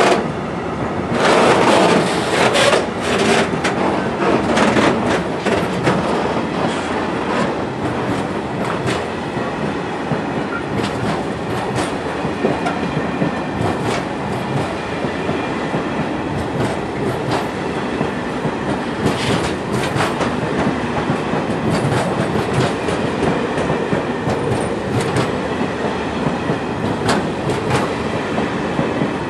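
Freight train of loaded open wagons rolling past: a steady rumble of steel wheels on rail with repeated clacks as the wheels run over rail joints, loudest in the first few seconds.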